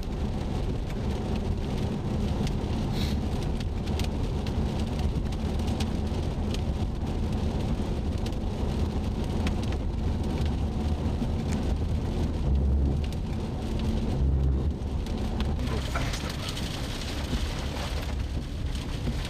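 Rain beating on a moving car's roof and windshield, heard from inside the cabin over a steady rumble of engine and road. A few sharp ticks of drops, or the first small hailstones, hit the car.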